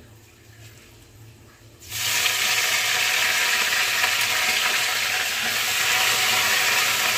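Fresh curry leaves dropped into hot oil with dried red chillies in a kadhai, for a tempering (chhaunk). After about two seconds of quiet, the oil starts sizzling loudly and suddenly, a steady hiss that keeps going.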